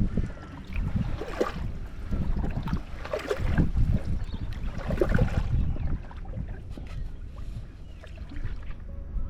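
Kayak paddle strokes, the blades dipping and splashing in the water about once every two seconds, over a low rumble; the strokes stop about six seconds in and only quieter water sound remains.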